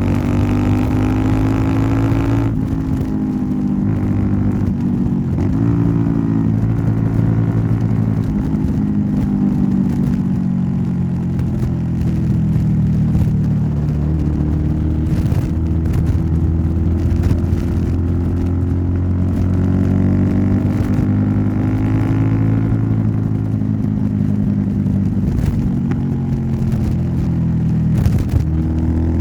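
Royal Enfield Interceptor 650's 650 cc parallel-twin engine running through an aftermarket Nuke exhaust while riding. Engine speed climbs at first, drops with a gear change about two and a half seconds in, then holds at a cruise with slow rises and falls in revs.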